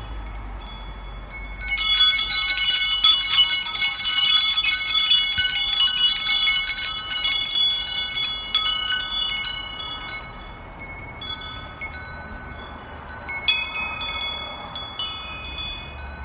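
Metal chimes jangling, a cluster of clear high ringing tones that begins about two seconds in and slowly dies away, with a few fresh strikes near the end.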